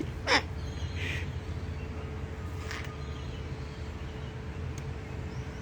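A couple of short cockatoo calls: a brief one falling in pitch just after the start and another about a second in. They sit over a steady low hum.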